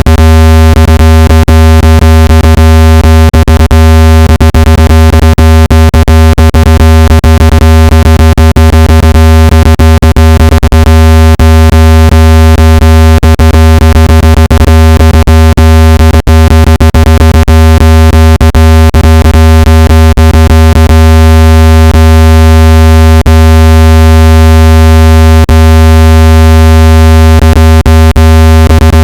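Loud, steady, low synthetic tone with a ladder of overtones, broken by frequent brief clicks: a speaker-cleaning tone played to vibrate dust and moisture out of a phone speaker.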